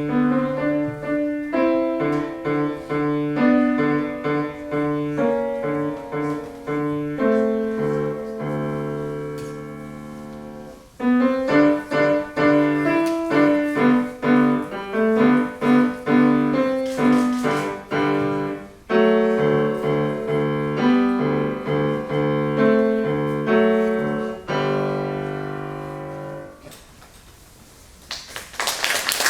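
Solo piano playing a simple classical-style piece, with a held chord partway through and a final chord that rings out and fades. Applause starts just at the end.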